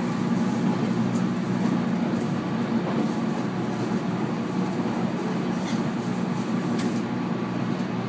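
Interior running noise of a JR East 719-series electric multiple unit travelling at speed: a steady low rumble of wheels on rail, with a few faint clicks.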